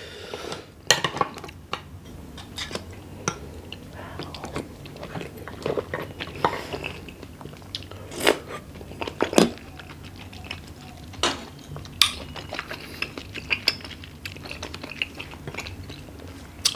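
Close-miked chewing and mouth sounds of a person eating jumbo oyster in sweet chili garlic sauce, with scattered sharp clicks of a metal spoon against the oyster shell and plate.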